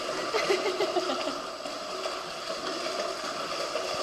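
Steady background hum and water noise, with a faint voice in about the first second.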